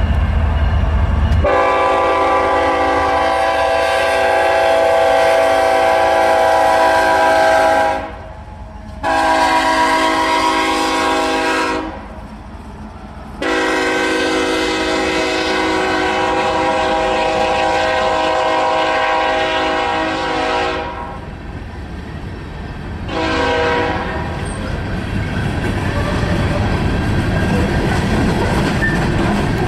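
Diesel freight locomotive's air horn sounding four blasts: a long one, a shorter one, another long one, and a brief one a little before the end. After the horn, the train passes with a steady rumble and wheels clacking over the rail joints.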